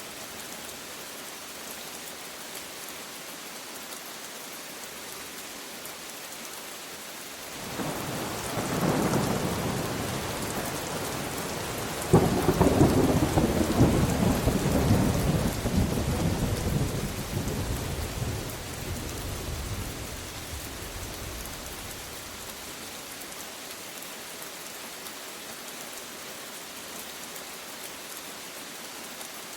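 Steady rain with a thunderclap: a low rumble swells about a quarter of the way in, a sharp crack follows a few seconds later, and the rumbling dies away slowly, leaving only the rain.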